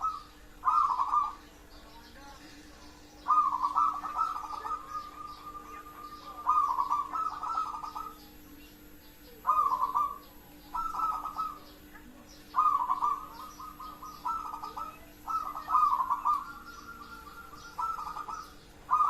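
Zebra dove (perkutut) singing: a series of rapid, trilled cooing phrases that come every second or two, some short and some drawn out. Faint high chirps of other small birds run underneath.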